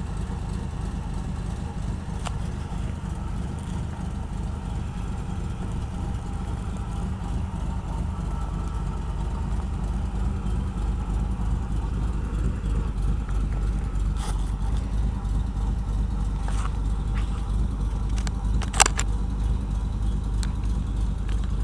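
The 450 hp engine of a 1964 Chevy truck running steadily with a deep low rumble, with a few sharp clicks, the loudest about nineteen seconds in.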